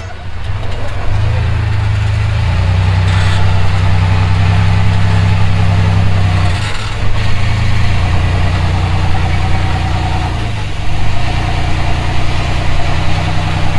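Rock crawler's engine running at low, steady revs under load as it works over an obstacle. The throttle eases off briefly about seven and eleven seconds in, then picks up again.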